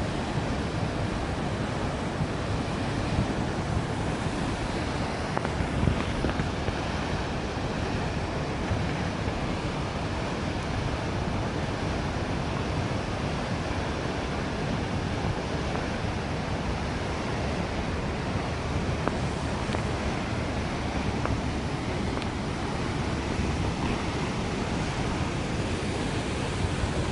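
Steady rushing of water gushing from a burst water main and flooding the street.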